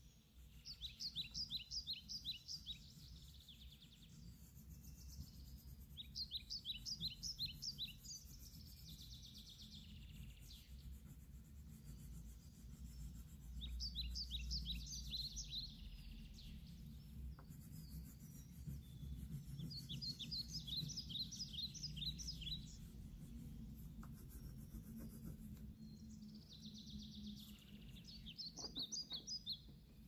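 A songbird singing: five short phrases of rapid, high, down-slurred notes, repeated about every six seconds, over a faint low background rumble.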